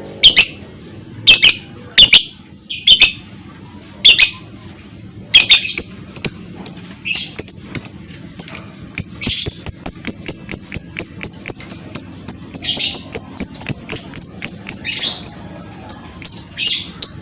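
Lovebird calling: loud, shrill single calls about a second apart, then from about six seconds in a fast, unbroken run of short high chirps, several a second, with louder calls mixed in.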